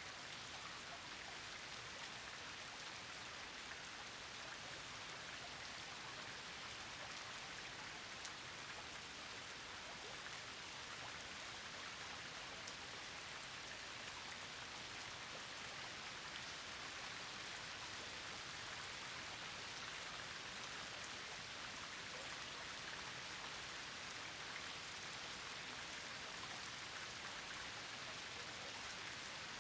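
Steady rain falling on a pond, an even hiss sprinkled with many small drop ticks.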